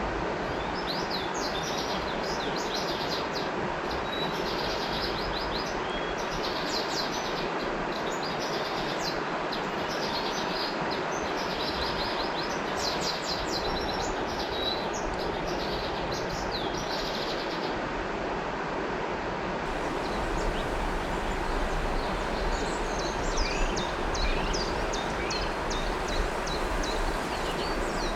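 River water flowing steadily, with small birds chirping and trilling in quick, repeated runs of high notes over it. A faint low hum joins the water about two-thirds of the way through.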